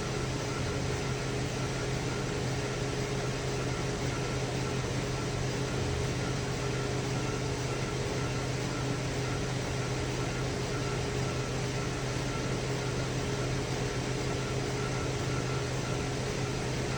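2010 Chevy Traverse's 3.6-litre V6 idling with a steady, even hum. The engine has been setting misfire codes for cylinders 1, 3 and 5.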